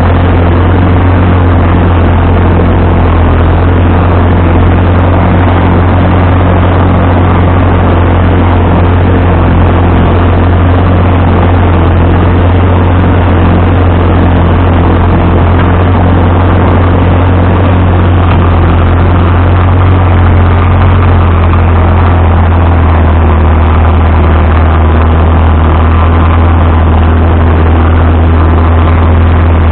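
Vintage farm tractor engine running steadily, loud and close, with a strong low drone.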